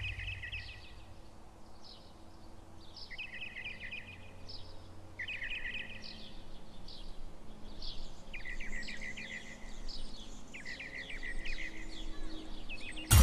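Bird song: short, rapid trilled phrases repeated every two to three seconds, with higher chirps between them, over faint background noise.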